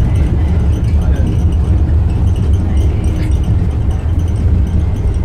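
Wuppertal Schwebebahn suspension railway train running: a loud, steady low rumble.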